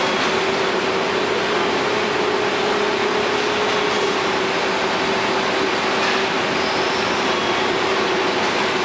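Steady drone of running machinery, a constant hiss with one steady hum tone held throughout.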